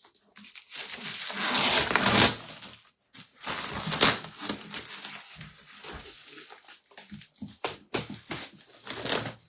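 Wrapping paper being torn and crumpled off a parcel by hand: irregular rustling, crackling tears, the loudest about two and four seconds in.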